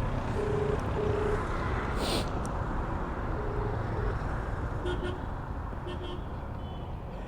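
Steady road-traffic rumble with short vehicle horn toots, two in the first second and a half and a few more later. A brief hiss comes about two seconds in.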